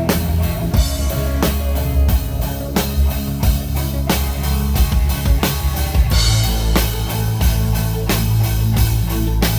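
Loud rock music with a drum kit keeping a steady beat over sustained bass and guitar.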